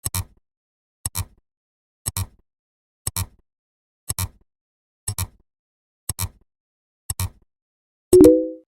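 Short sharp double clicks, one pair every second, like a steady clock tick. About 8 seconds in, a louder, brief pitched tone sounds once and fades away.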